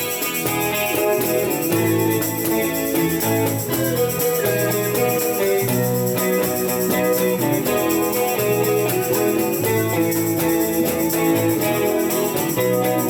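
A band playing an instrumental break in a pop ballad, with guitar over a moving bass line and no vocals.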